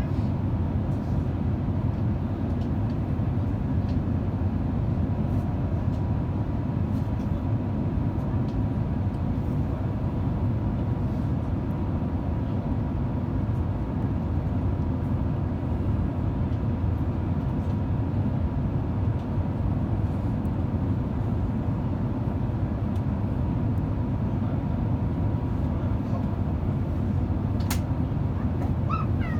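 Steady cabin noise of an Airbus A350 in flight, heard inside the cabin: a low, even rumble from the Rolls-Royce Trent XWB engines and airflow, with a faint steady whine.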